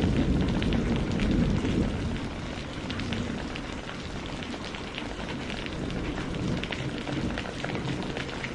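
Steady rain falling, with many individual drops pattering through it. A low rumble underneath is strongest for the first couple of seconds, then eases.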